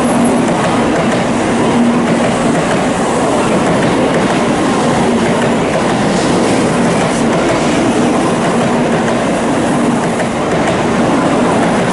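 Shinkansen bullet train moving along the platform track, a steady loud rumble of wheels and running gear with a low hum that comes and goes.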